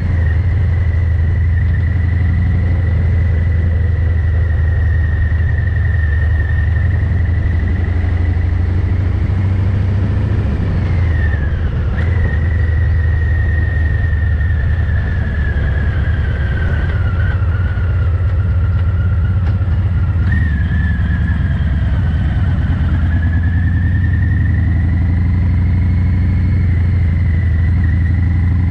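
Harley-Davidson Fat Boy 114's Milwaukee-Eight V-twin running through a Vance & Hines exhaust, a steady heavy low rumble, recorded with the mic gain set far too high so the sound is overdriven and mushy. A thin high whine slowly sags and rises in pitch over it.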